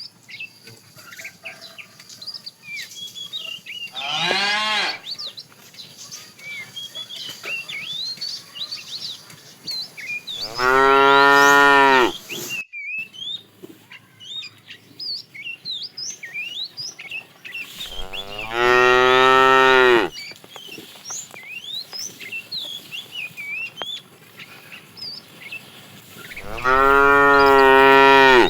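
Cattle mooing: a short call about four seconds in, then three long, loud moos roughly eight seconds apart, the last near the end. Faint chirps sound throughout.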